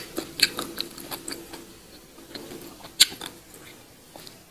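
Close-up eating sounds: wet smacks and clicks of a mouth chewing goat-head meat. Several come in the first second, one sharp one comes about three seconds in, and it goes quieter towards the end.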